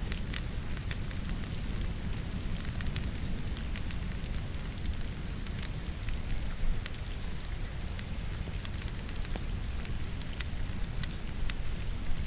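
Firewood burning in a fireplace, crackling with many sharp, irregular pops over a steady low rumble, mixed with the even hiss of falling rain.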